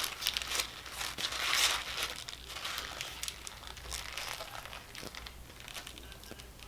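Sandwich wrapper crinkling and rustling as it is handled and opened, loudest about a second and a half in, then thinning to lighter rustles.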